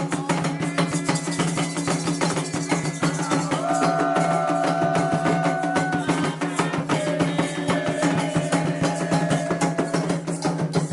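Candomblé ritual music: hand drums keeping a fast, dense beat under group chanting, with voices holding long notes near the middle.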